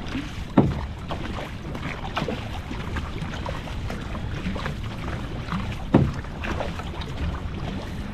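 Three-person outrigger canoe being paddled: paddles dipping and splashing in the water over wind rumbling on the microphone, with two sharp knocks, one about half a second in and one about six seconds in.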